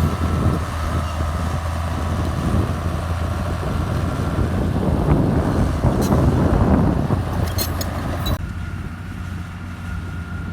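Komatsu bulldozer's diesel engine running steadily under load, with a thin steady whine above it. A noisier stretch swells around the middle, and the higher noise drops off sharply about eight seconds in.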